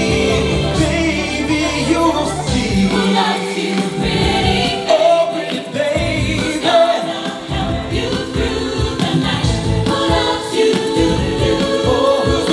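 A vocal group singing in close, choir-like harmony over a backing band.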